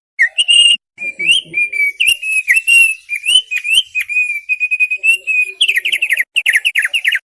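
Thick-billed white-eye (opior paruh tebal) singing a fast, varied song of clear whistled notes and twitters, ending in a quick run of falling notes.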